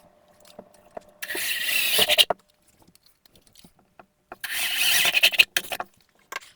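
Self-drilling drywall anchors being driven into drywall with a power driver: two runs of about a second each, with the whir of the motor and the grinding of the anchor cutting into the gypsum.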